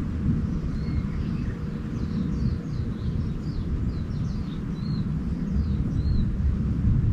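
Small birds singing: a few separate arched high notes, then a run of quick, high falling chirps from about two seconds in to about six and a half. Underneath is a constant low rumble.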